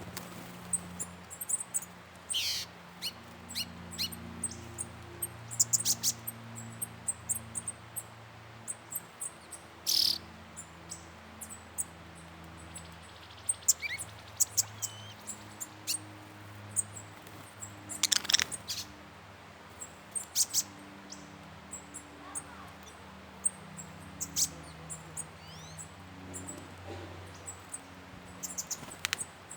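Small birds calling: many short, very high, squeaky chirps at irregular intervals, some as quick falling notes, over a faint steady low hum.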